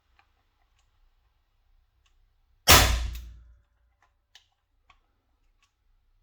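A single shot from a T4E HDR 50 (TR50) CO2-powered .50-calibre less-lethal revolver, a sharp crack that dies away over about a second, then a few faint clicks.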